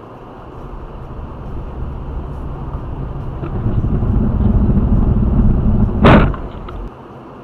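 Low vehicle rumble growing louder for several seconds, then a single loud crash of impact about six seconds in. The rumble cuts off suddenly just under a second later.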